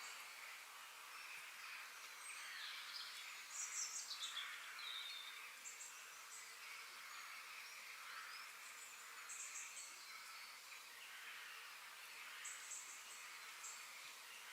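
Faint outdoor bird song: several birds calling, with short, high, rapid trills about three times and a few falling chirps, over a steady haze of more distant calls.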